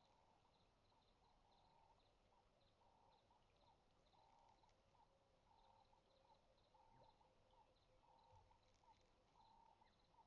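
Near silence, with faint chirping calls repeated in an even rhythm, about one or two a second.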